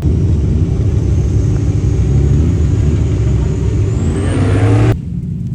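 A car engine under hard acceleration, its pitch climbing steeply during the last second before the sound cuts off abruptly about five seconds in.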